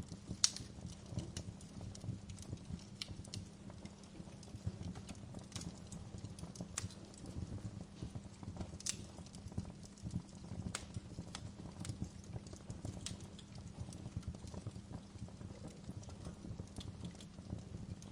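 Wood fire burning in a fireplace, crackling with irregular sharp pops over a low, steady rumble of flames; the loudest pop comes about half a second in.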